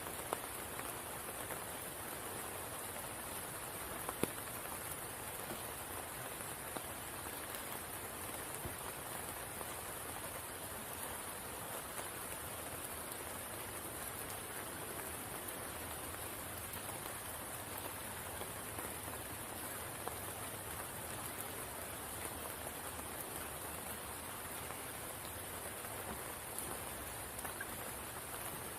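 Steady rain falling on the water of a spring pool, a constant even hiss with a few sharper drop clicks, one standing out about four seconds in.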